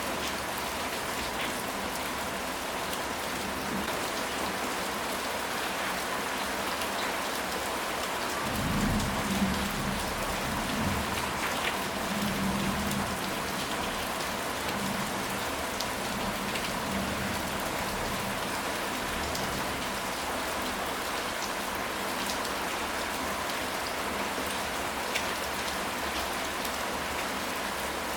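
Steady rain falling, an even hiss with scattered drop ticks. About a third of the way in, a low rumble of distant thunder swells and fades over roughly four seconds.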